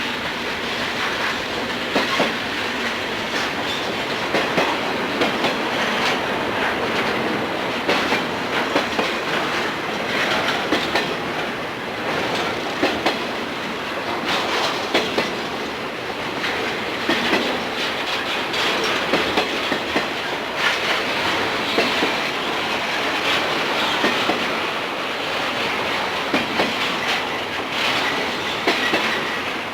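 Freight train cars rolling steadily past, steel wheels clacking over rail joints in a frequent, irregular beat.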